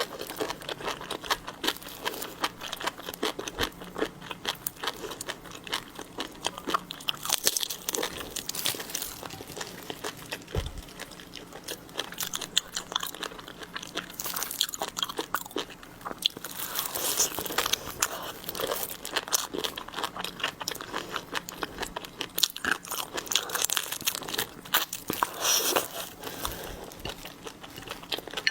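Close-miked eating of seafood: steady chewing and crunching, with many sharp, irregular crackles of bites.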